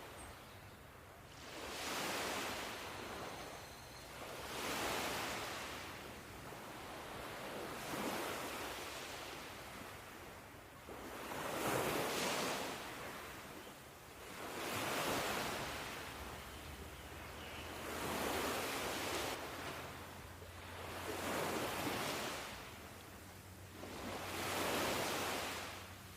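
Ocean surf: waves breaking and washing in one after another, each swell of noise rising and dying away about every three seconds.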